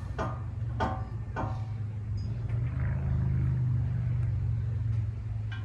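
A steady low rumble that swells for a second or two in the middle, with a few light clicks and knocks from handling the bearing and grease.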